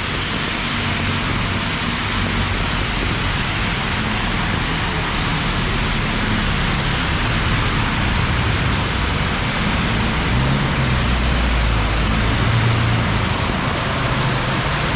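Heavy rain pouring steadily, with a low hum of traffic underneath that swells briefly around the middle.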